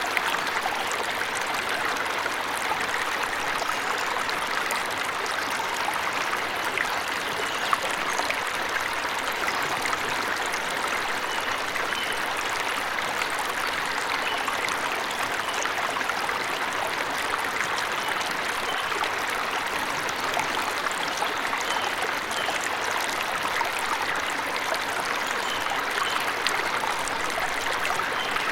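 Waterfall water running steadily, an even splashing and trickling rush that does not let up, with a few faint short bird chirps now and then.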